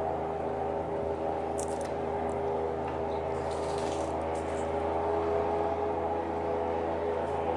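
Airboat's engine and propeller running with a steady drone, with a few brief crackles near the middle.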